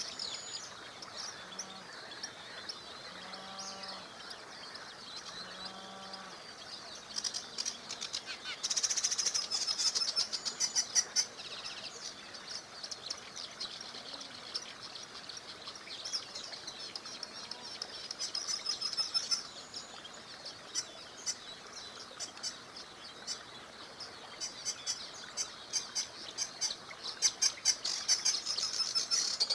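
Many songbirds chirping and singing over the faint steady rush of a small river, with busier, louder bursts of chirping about a third of the way in and again near the end. A few low call notes sound in the first six seconds.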